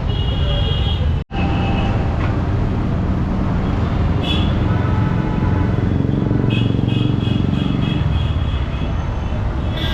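Busy street traffic: engines running in a steady low rumble, with vehicle horns honking several times, including a run of quick toots near the end. The sound cuts out completely for an instant about a second in.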